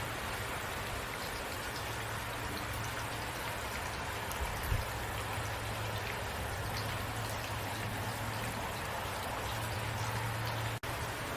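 Steady rain, with individual drops ticking over an even hiss and a low steady rumble underneath. The sound cuts out for an instant near the end.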